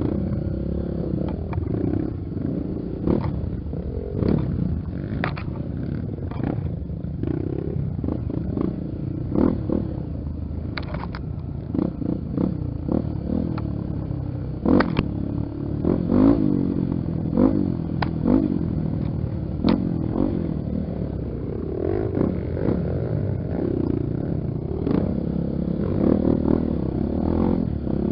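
Honda XR Tornado trail motorcycle's single-cylinder four-stroke engine running, its revs rising and falling again and again, with frequent knocks and clatter.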